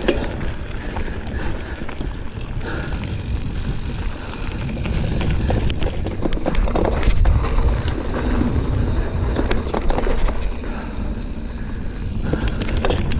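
Giant Fathom 29 mountain bike ridden fast along a dirt trail: a steady rush of tyre noise and wind rumble on the microphone, with scattered clicks and rattles from the bike over bumps.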